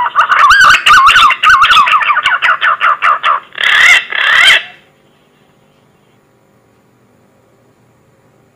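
Green pigeon (punai) lure call: a fast run of wavering whistled notes, then two longer, higher whistles, stopping about five seconds in.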